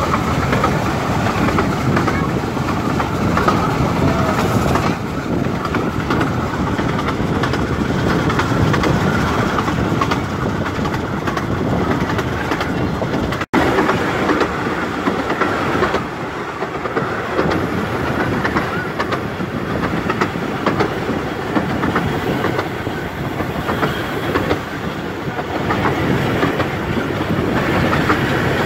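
15-inch gauge miniature railway train on the move, heard from on board: a steady rumble with the clickety-clack of the wheels running over the rails.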